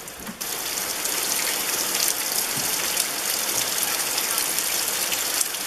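Heavy rain falling on wet ground, a steady hiss that gets louder about half a second in.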